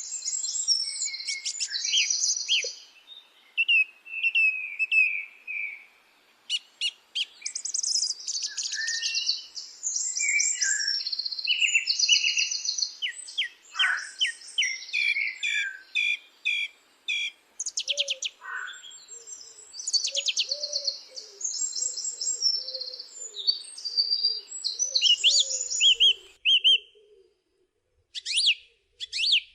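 Several songbirds singing and calling together in a forest chorus of fast trills, chirps and whistled notes. A lower repeated call joins in the second half.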